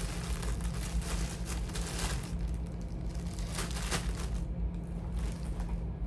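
Charging cables being rummaged through and handled, with irregular rustling and light clattering that is busiest in the first half, over a steady low hum.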